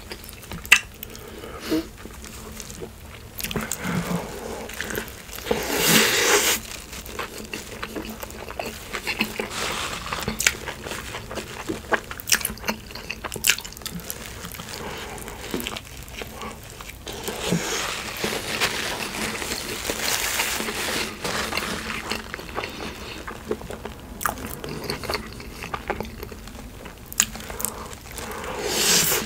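A person eating In-N-Out animal-style food close to the microphone: repeated bites and chewing, with crunching and wet mouth clicks. There are a few louder stretches, about six seconds in and again in the middle.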